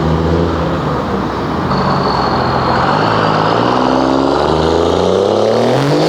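A 24-valve 5.9 L Cummins inline-six diesel in a 1999 Dodge 2500, breathing through a 5-inch turbo-back straight pipe, running loud and accelerating, its engine note climbing steadily through the second half. A high whistle rides over it from about two seconds in.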